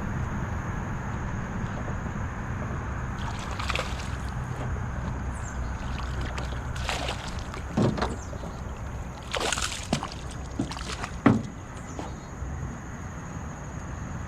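River water splashing and sloshing in a few short, irregular bursts over a steady low rush of moving water.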